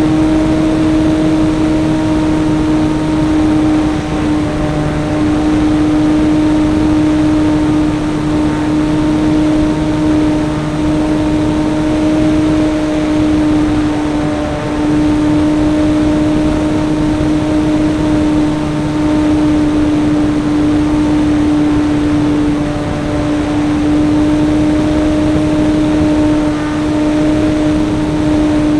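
RC model airplane's motor heard from an onboard camera, running at a steady high speed in flight with a constant whine over rushing air noise.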